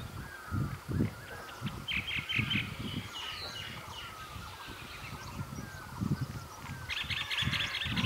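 Birds chirping and calling in quick, overlapping phrases, with bursts of dense chatter about two seconds in and again near the end. Repeated low, muffled thumps sit under the calls.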